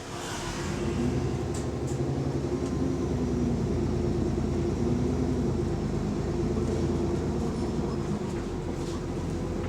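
Diesel bus engine pulling under load, heard from inside the bus. It grows louder over the first second, then runs on steadily with a wavering engine note, carrying the small exhaust leak the bus is known for.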